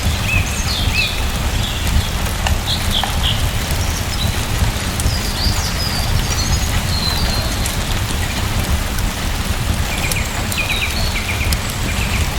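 Steady rain with a deep low rumble beneath it, and short bird chirps that come and go a few times.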